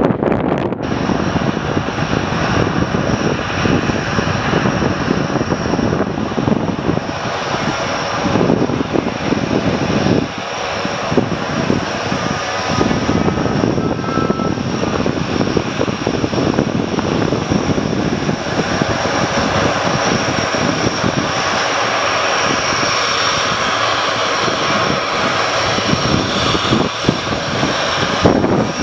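US Navy C-130 Hercules taxiing, its four turboprop engines running with a steady loud drone and a constant high-pitched whine over it.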